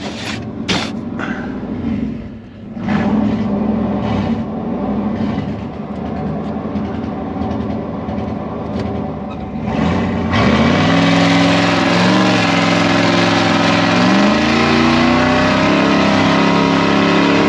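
Dodge mud truck's engine running at low revs, then revving hard about ten seconds in as the tyres spin in mud, with a dense hiss of spinning tyres and spraying mud. The engine pitch climbs, eases off, and climbs again near the end.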